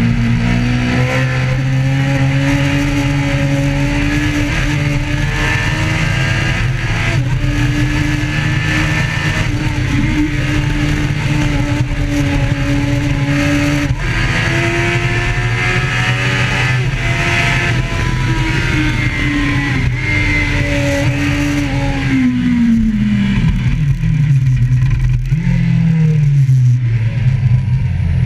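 Motorcycle engine running hard under way, its pitch stepping up and down with throttle and gear changes, then falling steadily over the last few seconds as the bike slows.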